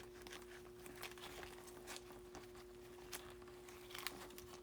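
Faint handling of trading cards in plastic sleeves and top loaders: a few soft clicks and rustles over a steady low electrical hum.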